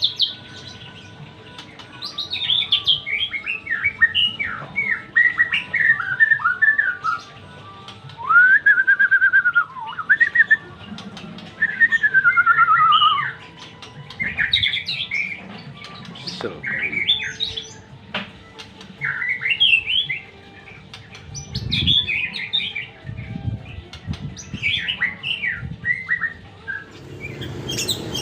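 White-rumped shama (murai batu) singing: a long run of varied phrases of clear whistles, rapid trills and slurred notes, each lasting a second or few, with short pauses between.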